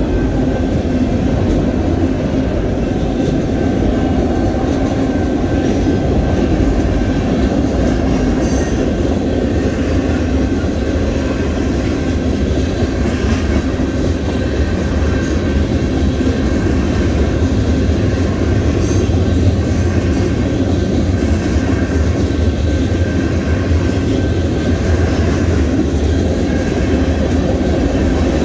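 Union Pacific freight train cars rolling past at a grade crossing: a steady, loud rumble and rattle of steel wheels on rail with some clickety-clack over the rail joints and a few faint knocks.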